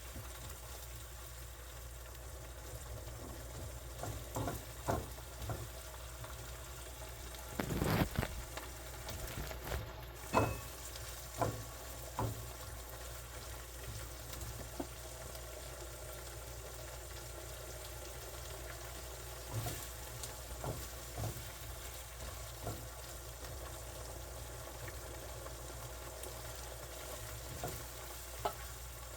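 Food sizzling in a frying pan, with scattered short knocks and clicks of a utensil against the pan, the loudest cluster about eight seconds in.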